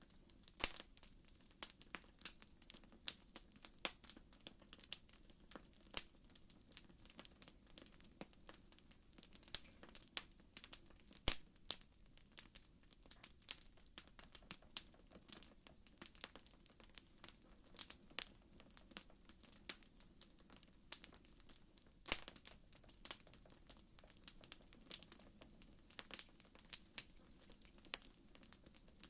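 Campfire crackling: irregular sharp pops and snaps, a few of them louder, over a faint steady low rush.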